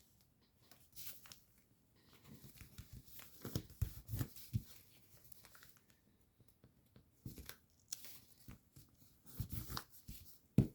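Paper being folded and creased by hand: faint, scattered rustles and crinkles with quiet gaps between, the busiest stretch a few seconds in and another near the end.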